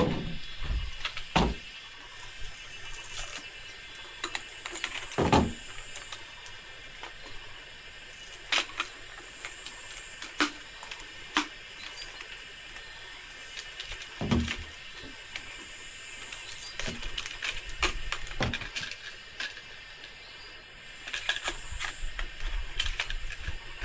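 Insects buzzing steadily and high-pitched in the background, with a handful of sharp knocks and clacks, about a second and a half in, near five seconds and near fourteen seconds.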